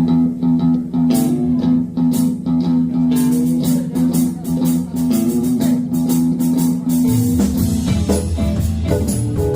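Live band playing blues-style music: electric guitar and bass over a steady drum beat, with a change in the bass line about seven and a half seconds in.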